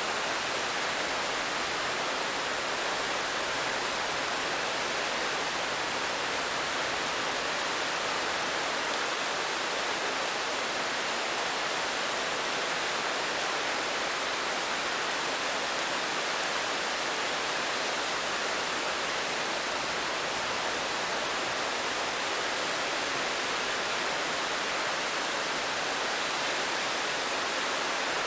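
Steady rain: a dense, even hiss with no separate drops or thunder standing out.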